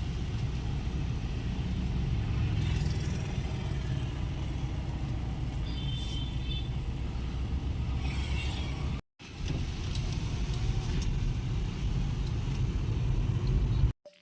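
Steady low road rumble of a moving car, heard from inside the cabin. It drops out briefly about nine seconds in.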